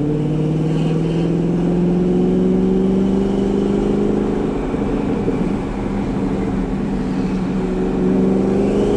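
Twin-turbo C8 Corvette's built LT2 V8, heard from inside the cabin, pulling under acceleration: its pitch rises slowly for about four and a half seconds, falls away briefly, then climbs again near the end.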